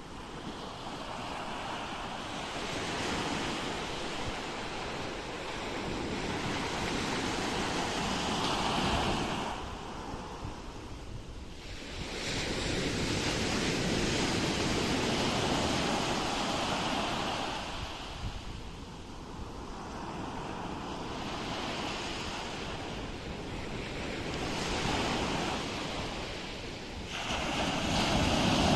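Ocean waves breaking and washing up on a shore, in slow surges every few seconds that swell and fall back.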